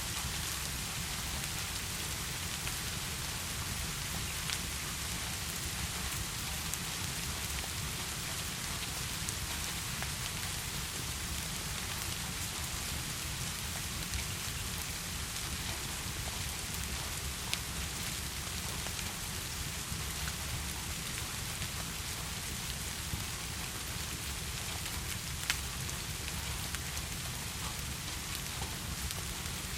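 Steady heavy rain falling, an even hiss, with a few sharp clicks now and then.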